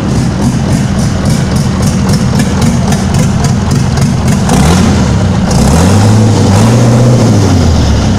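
Tatra engine running loudly, revved up and back down a couple of times in the second half so its pitch rises and falls.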